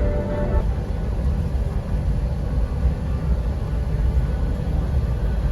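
Steady low rumble inside an Airbus A321 cabin as the airliner taxis after landing.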